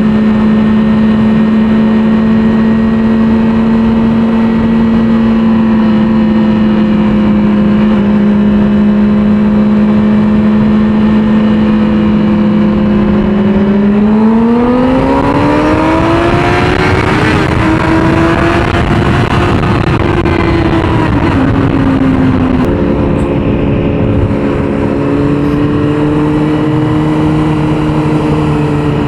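600cc inline-four sport bike engine at steady cruising revs, then climbing in pitch as the bike accelerates with wind noise rising, and dropping back to lower, steady revs in steps near the end.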